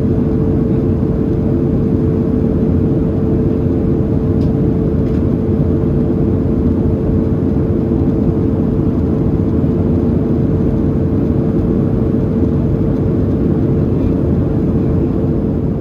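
Cabin noise inside a Boeing 737-700 in flight: the CFM56-7B turbofans and rushing air make a loud, even rumble with a steady hum running through it.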